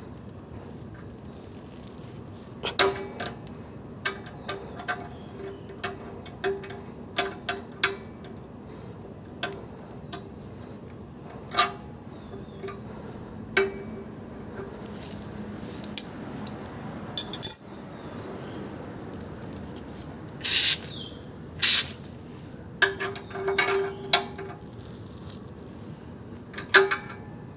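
Irregular metallic clinks and taps, some with a brief ring, over a steady low hum.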